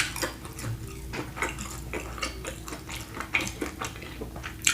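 Close-miked wet clicking and crackling from eating a sauce-covered seafood boil of prawns and sausage, with irregular small clicks throughout.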